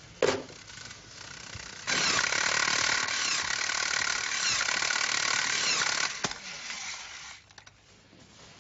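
A sharp click, then from about two seconds in a loud mechanical ratcheting rattle that runs for about four seconds and stops abruptly.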